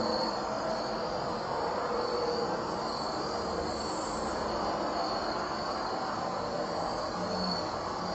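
Night insects, crickets or katydids, chirping in a high band that swells and fades over and over, above a continuous rushing rumble.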